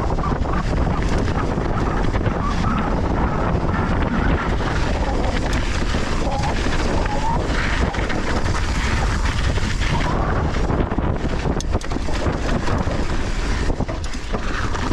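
Wind rushing over a GoPro camera's microphone on a fast downhill mountain-bike run, over the rumble of the bike's tyres on dirt trail. Many short clicks and rattles from the bike run all through it.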